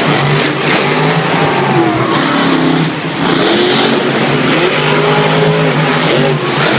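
Monster truck engine revving loudly, its pitch climbing and falling several times, with a brief drop in level about three seconds in.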